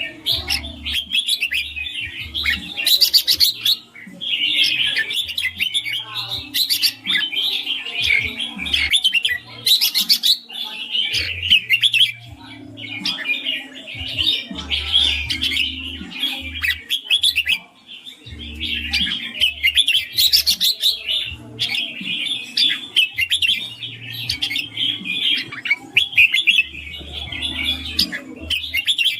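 Red-whiskered bulbul singing a rapid, continuous run of clear chirping phrases, breaking off briefly twice.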